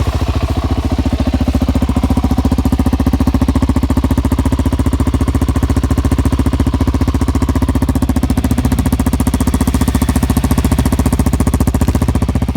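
Suzuki DR-Z400's single-cylinder four-stroke engine idling steadily through an aftermarket Barker's full stainless exhaust, with an even, fast thumping beat that does not change in speed.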